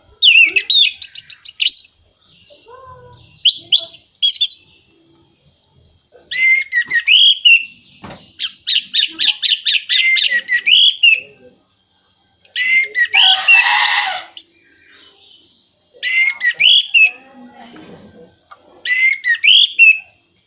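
Orange-headed thrush singing: about six loud phrases of rapid repeated whistled notes and trills, separated by short pauses.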